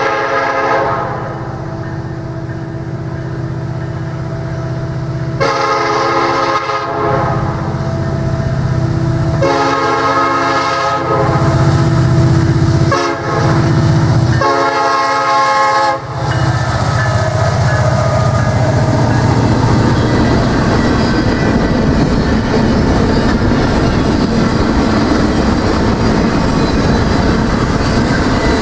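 Diesel locomotive horn sounding a chord in several long blasts over the rumble of the engine, then the train passing close with a loud steady rush and clatter of wheels over rail joints.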